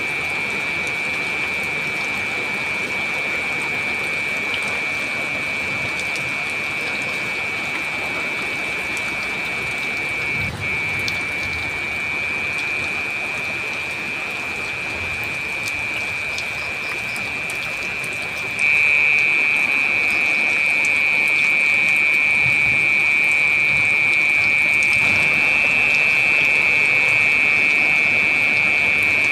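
Heavy rain falling steadily, with a steady high-pitched hum running through it that gets abruptly louder about two-thirds of the way through.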